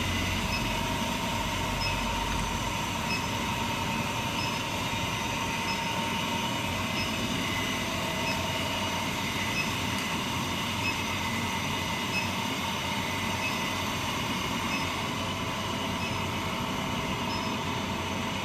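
Steady running noise of a 15 kW high-frequency induction heating machine powering a small melting furnace: an even mechanical hum and rush with a faint high whine. A low hum drops away about three seconds in.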